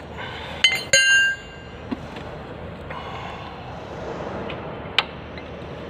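Steel socket tools clinking on the motorcycle's oil drain nut: two sharp metallic clinks about a second in, the second ringing briefly, and another sharp click near the end.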